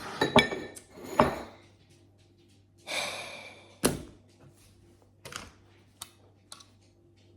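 Snack packages and containers handled on a table: several knocks and clicks, the loudest a little before four seconds in, with a brief rustle just before it.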